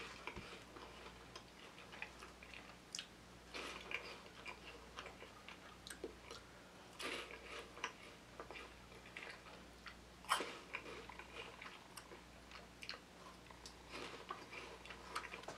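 Close-up crunching and chewing of Cheese Pleesers puffed corn cheese snacks, coming in irregular crackly bursts as each piece is bitten and chewed. A faint steady low hum runs underneath.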